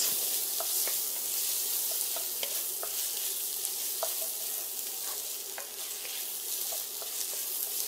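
Diced Leberkäse, onions and tomato paste sizzling steadily in a cast-iron Dutch oven as the tomato paste toasts, stirred with a wooden spoon. Faint scattered clicks come from the spoon scraping and tapping the pot.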